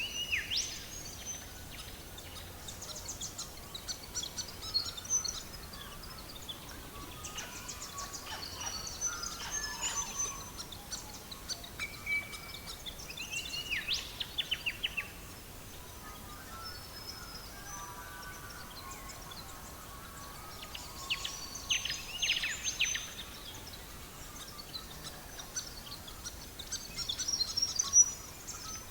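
Several songbirds singing and chirping: quick trills and short falling series of notes come and go throughout, over a soft, steady background hiss.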